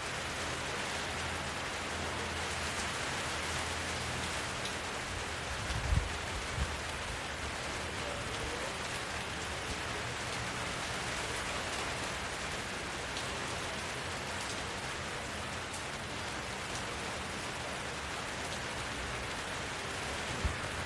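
Steady rain falling, an even hiss of many drops. A few short low thuds break through about six seconds in and again near the end.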